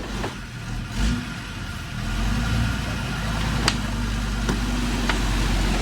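Motor vehicle engine running steadily at low revs, with a few sharp knocks about three and a half, four and a half and five seconds in.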